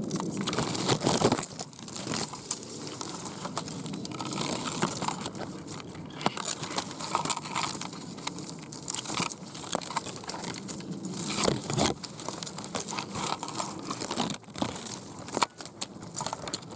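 Holly leaves and twigs rustling and crackling against a camera and tripod being pushed up over a holly bush, with irregular clicks and knocks throughout.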